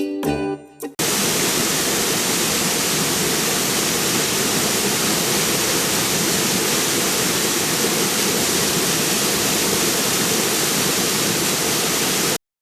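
Waterfall: a loud, steady rush of falling water. A short bit of chiming music plays in the first second, and the sound cuts off suddenly just before the end.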